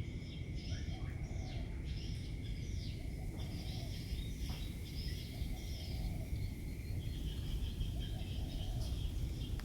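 Birds singing a dawn chorus, with short whistled phrases repeated over and over, above a low wind rumble. A steady high hum also runs under the song and fades out about seven seconds in.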